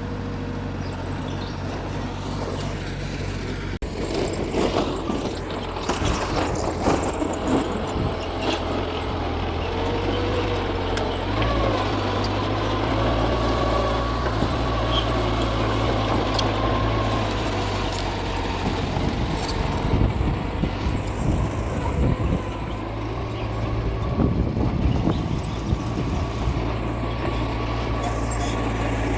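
Mitsubishi bulldozer's diesel engine running steadily as it pushes soil. The engine note drops about four seconds in and rises again near the middle, with spells of clanking and knocking from the tracks and blade.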